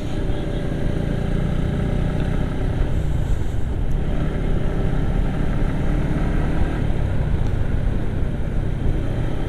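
Suzuki Gixxer SF motorcycle engine running steadily while riding, with a continuous low drone and rushing road noise.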